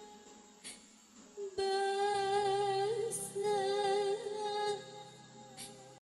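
Female singer in a dangdut song, holding long drawn-out notes with vibrato over a quiet accompaniment with a low steady drone. The phrase begins about a second and a half in and the sound cuts off suddenly near the end.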